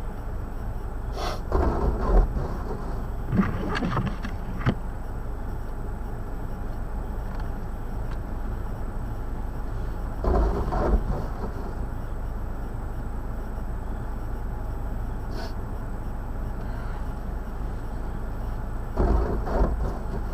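Steady low rumble of a motor vehicle in heavy snow, with a few short louder bursts of noise.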